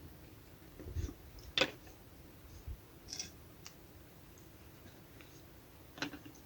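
A few scattered light clicks and knocks, about four in all, the sharpest about one and a half seconds in, over quiet background.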